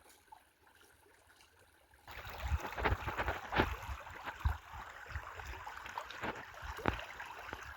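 Near silence, then a sudden cut-in about two seconds in to river water flowing and gurgling, with irregular splashes and sloshes throughout.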